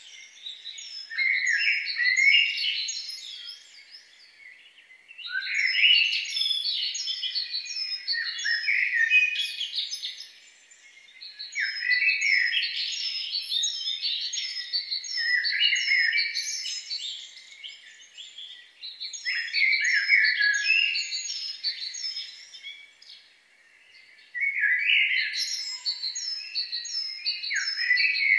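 Songbird singing: long, rapid phrases of twittering and trills, a few seconds each, repeated one after another with short pauses between.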